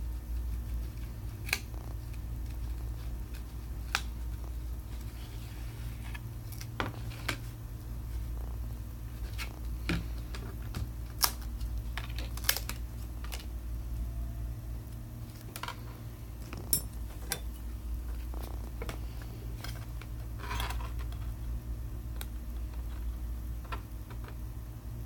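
Scattered sharp clicks and taps of small repair tools against a phone's glass and frame, over a steady low hum.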